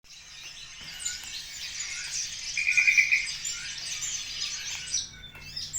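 Javan bush lark (branjangan) singing a fast, continuous twittering song, with a brief rapid trill about halfway through. The song eases off near the end.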